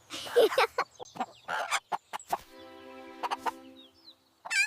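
Cartoon chicken sound effect: a quick run of short clucks, then a steady held musical note about halfway through.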